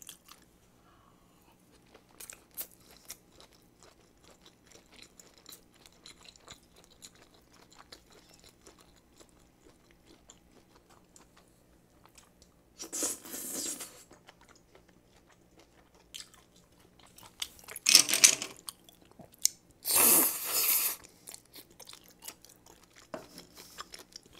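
Close-miked chewing and biting of butter-grilled abalone dipped in spicy sauce: soft, scattered wet mouth clicks, with three louder bursts of noise, each about a second long, in the second half.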